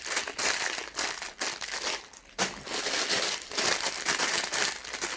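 Plastic bags of Lego pieces rustling as they are handled and pulled out of the box, with a short lull about two seconds in.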